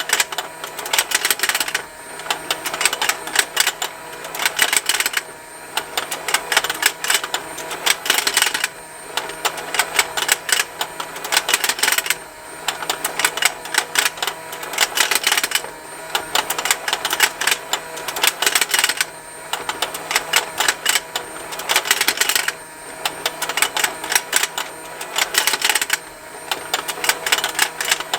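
Plastic fishing-game toy running: its small motor turns the pond with a steady hum under continuous rapid plastic ticking and snapping from the fish mechanism. The clatter swells and eases in a regular cycle of about three and a half seconds.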